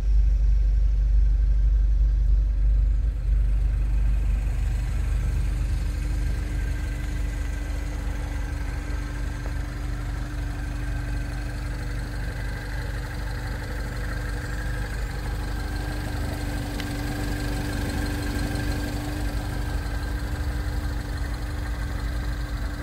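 2010 Mini John Cooper Works' turbocharged 1.6-litre four-cylinder idling steadily.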